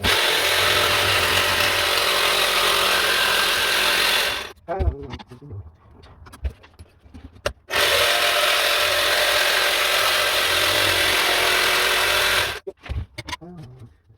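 Electric power tool working wood, run in two bursts of about four and five seconds, each starting and stopping abruptly, with light knocks of the workpiece being handled in the pause between them.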